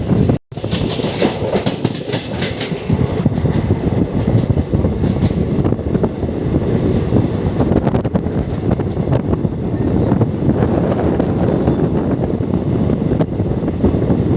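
Express train running at speed, its wheels clattering over the rail joints in a dense, steady clickety-clack under rushing noise. A brief break in the sound comes just after the start.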